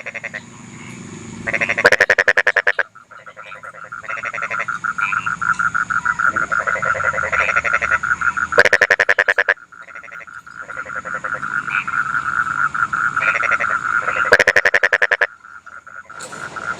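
A chorus of rice-paddy frogs croaking in fast pulsed trills. The chorus swells steadily twice, and it is broken three times by a loud rattling burst of croaks about a second long from a frog close by.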